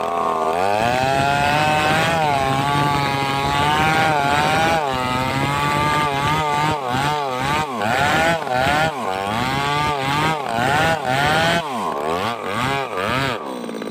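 Chainsaw cutting into a tree, its engine held at high revs and then repeatedly dropping and climbing again as the saw bogs in the cut, before it cuts out near the end. The bogging fits the bar getting pinched in the cut.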